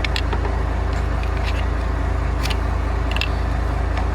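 A vehicle engine idling steadily, with a few faint light clicks over it.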